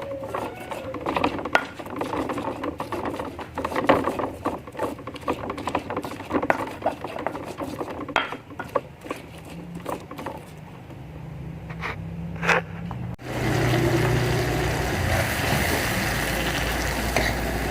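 Irregular clicking and knocking for most of the time, then a sudden change about two-thirds of the way in to a steady low hum with a rushing noise, like a running engine or motor.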